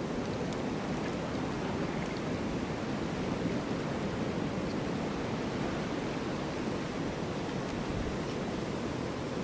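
Steady, even wind of a snowstorm, an unbroken rushing noise that neither rises nor falls.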